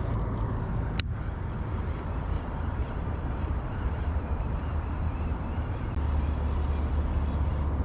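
Steady low rumble of road traffic, with a single sharp click about a second in.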